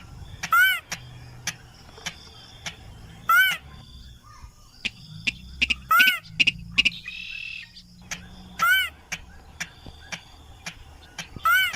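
A rail's call, a short arched note, sounded five times about three seconds apart. This is a lure recording used to draw in rice-field rails and crakes. Steady quick ticking from insects or frogs runs underneath.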